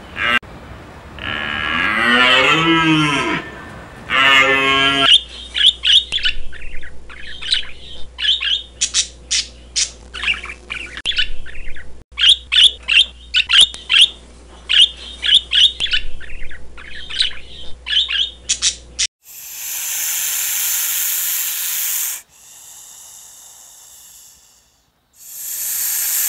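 First, two drawn-out animal calls with a wavering, arching pitch. Then budgerigars chirping in quick, short notes for about fourteen seconds. Near the end comes loud, harsh hissing in three bursts, the middle one quieter.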